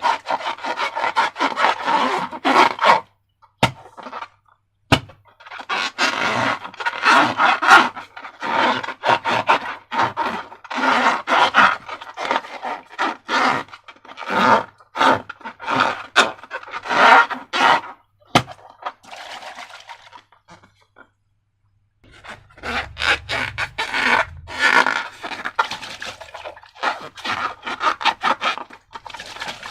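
Slime being worked and scraped: a run of short rasping, scraping strokes, with a brief pause about three seconds in and a longer pause a little after twenty seconds.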